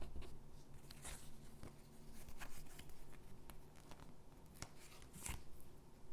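Stickers being peeled and pressed onto paper gingerbread cutouts: soft scattered rustles, scratches and light taps, with louder crinkles about a second in and again near the end.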